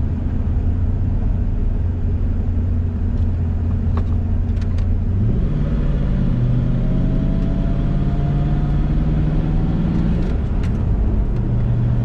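Car engine droning steadily on the road. About five seconds in it picks up and its pitch climbs under acceleration, then drops back about ten seconds in and settles.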